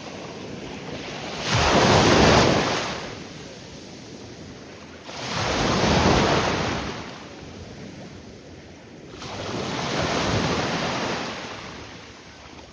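Small waves breaking at the shoreline of the Gulf of Mexico. Three waves wash in about four seconds apart, each swelling up and fading away.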